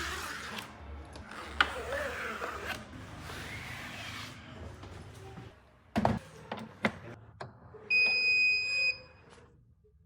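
A single electronic beep, one steady high tone about a second long near the end. Before it come handling rustle and a few sharp knocks and clicks.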